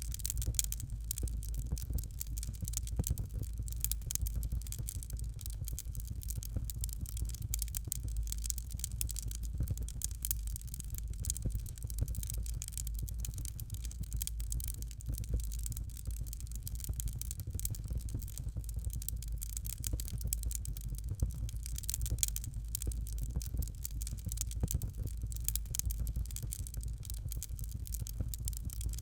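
Fireplace fire crackling continuously: dense small pops and snaps over a steady low rumble.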